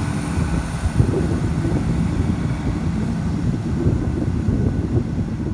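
A two-car Class 170 Turbostar diesel multiple unit's engines running in a steady, loud, low rumble.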